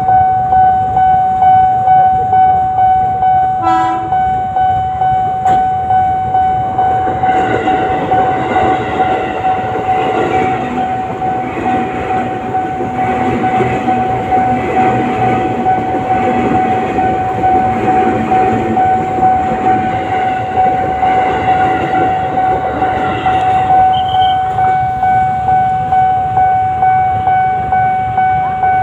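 Railway level-crossing warning bell ringing over and over at an even pace. From about seven seconds in to about twenty-four seconds, a passing train's wheels rumble and clatter on the rails beneath it.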